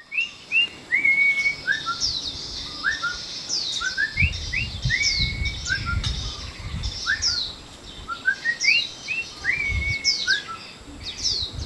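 Small songbirds chirping and twittering: quick rising notes and falling whistled sweeps in a busy sequence that repeats about halfway through. A low rumble sits under the calls for a few seconds in the middle.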